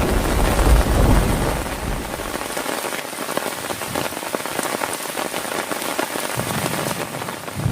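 Heavy rain falling steadily, a dense patter of drops on a surface. A low thunder rumble dies away over the first couple of seconds, and another rumble begins to build near the end.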